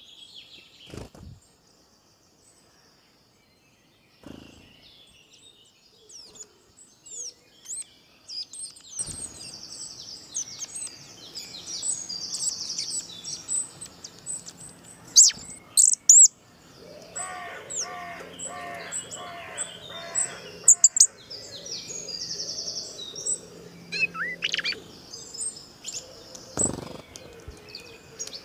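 Small birds chirping and tweeting in short high calls, with a spell of rapid repeated warbling in the middle and a few louder calls. Underneath, a soft scratching as a wire whisk stirs dry semolina and sugar in a stainless steel bowl.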